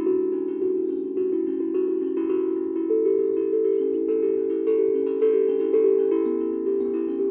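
Small harp being plucked: a slow tune of ringing notes that overlap and sustain into one another.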